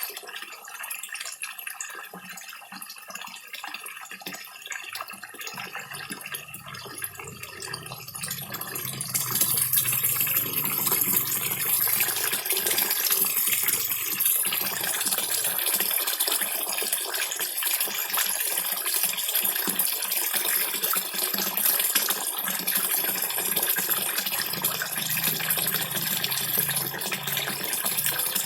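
Water trickling from a small waterfall into a koi pond, mixed with many small splashes and slurps of koi feeding at the surface. It grows louder and brighter about nine seconds in, then holds steady.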